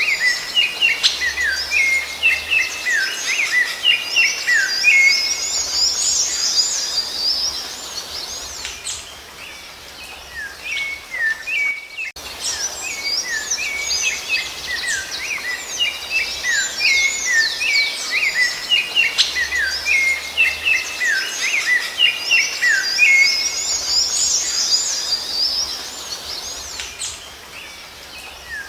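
Rufous-bellied thrush (sabiá-laranjeira) song: runs of quick whistled notes with higher twittering above them. After a brief break about twelve seconds in, the same passage repeats, as a looped recording.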